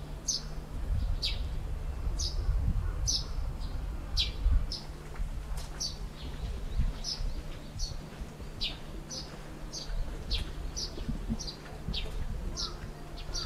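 Small birds chirping over and over: short high calls that each drop in pitch, about two or three a second, over a low steady rumble.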